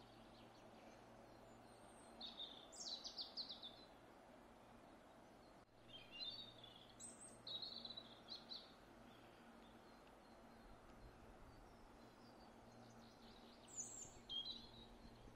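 A songbird singing three short phrases of quick, high notes, about two, six and fourteen seconds in, over faint steady background noise with a low hum.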